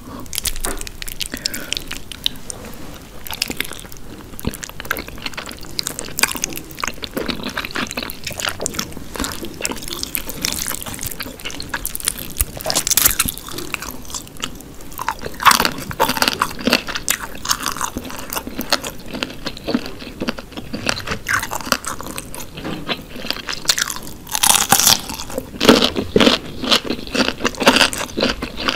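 Close-miked eating of a whole chicken in red sauce: steady wet chewing, biting and smacking mouth sounds, with a few louder bites midway and again near the end.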